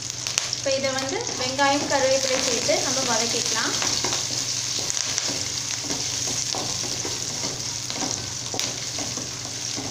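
Shallots, garlic, dried red chillies and curry leaves sizzling in hot oil in an aluminium kadai, a steady frying hiss, while a wooden spatula stirs them with scattered scraping clicks against the pan.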